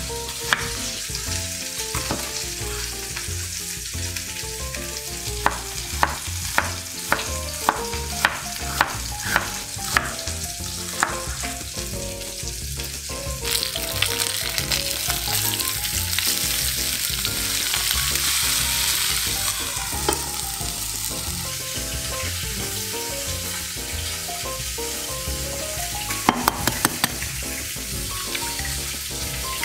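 A chef's knife slicing an onion on a wooden cutting board, sharp chops about every half second for the first ten seconds or so. Then chicken legs sizzle in hot oil in a frying pan. Near the end come a few quick taps of an eggshell being cracked.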